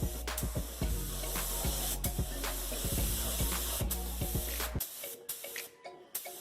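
Paint spray gun hissing as it lays a first coat of black automotive paint, the spray broken by brief pauses and cutting off about five seconds in.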